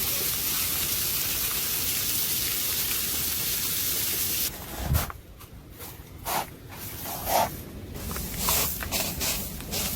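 Dense, steady hiss of a heavy storm downpour. About four and a half seconds in it cuts off abruptly to a quieter background with scattered sharp knocks and thuds.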